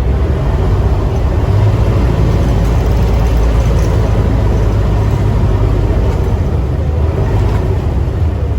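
Steady low rumble of a running vehicle engine with a noisy wash above it.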